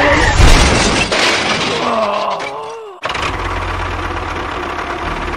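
A loud crash-like burst about half a second in, then a few falling tones, and after an abrupt cut a steady low hum of a small motor running.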